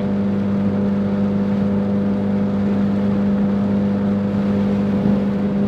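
Tuned Ford Focus RS's turbocharged 2.3-litre four-cylinder and aftermarket exhaust droning steadily at a constant cruise, heard from inside the cabin; the pitch holds level with no revving.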